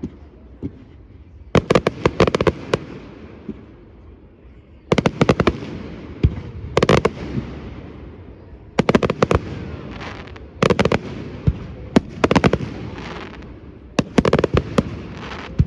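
Fireworks display: clusters of sharp bangs and rapid crackling reports every second or two, about seven volleys, with a rumbling echo between them.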